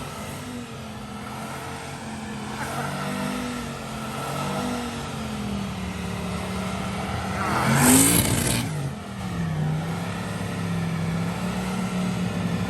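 Car engine running with its pitch rising and falling as it is revved, with one sharp, loud rev about eight seconds in.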